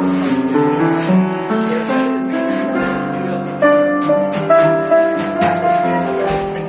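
Live jazz band playing, with the piano prominent in sustained chords and melody over light, regular high taps about twice a second.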